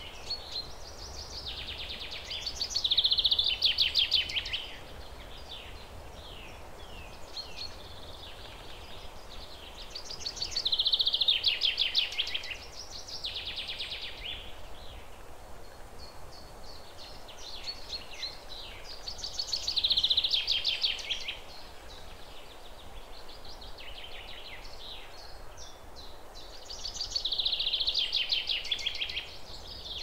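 A songbird singing a rapid trilled phrase about every eight seconds, four times, with softer chirps between the phrases. A faint steady hiss runs underneath.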